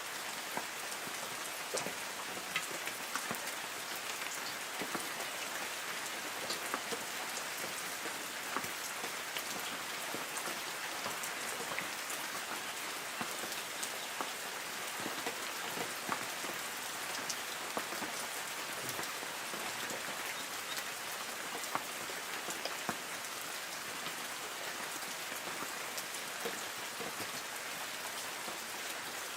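Light rain falling on forest trees: a steady hiss of rain with many small, scattered drip ticks on leaves.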